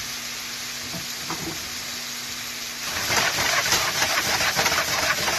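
Sliced chicken breast sizzling in hot oil in a small frying pan. About three seconds in, the sizzle turns louder and crackly, with many quick clicks and scrapes as the pieces are stirred.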